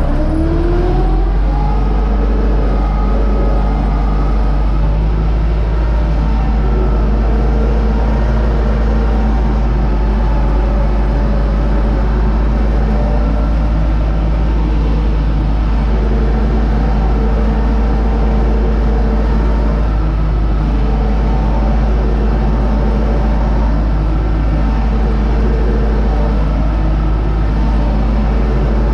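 Universal U650 tractor's four-cylinder diesel engine running. Its pitch rises in the first second or so, then it holds at steady revs.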